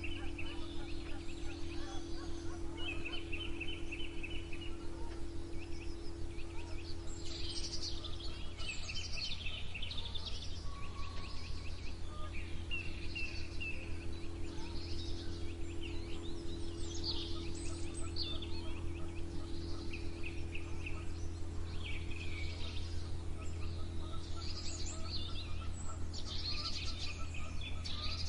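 Several songbirds singing together, with repeated rapid trills and chirps, over a steady low hum.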